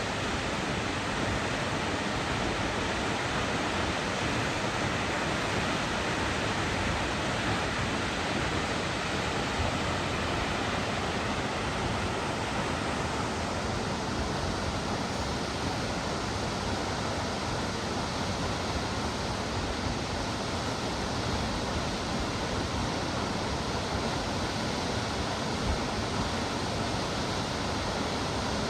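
Steady rushing of water from a waterfall, an even roar with no breaks. The higher hiss softens slightly about halfway through.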